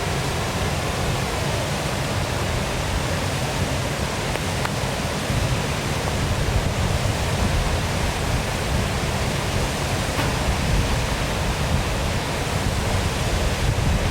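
Waterfall: water pouring and splashing in a steady, even rush, with a low rumble beneath.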